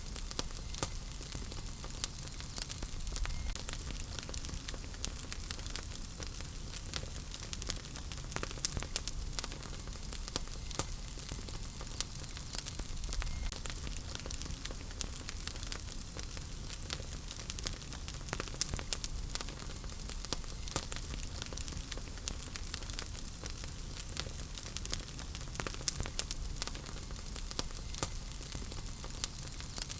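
Wood fire burning in a fireplace: a steady low rumble and hiss of flames with frequent small sharp crackles and pops from the burning wood.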